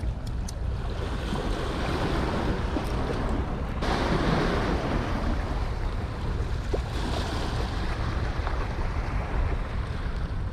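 Gusty wind buffeting the microphone over surf washing against the shore, with a low steady rumble and a louder surge about four seconds in.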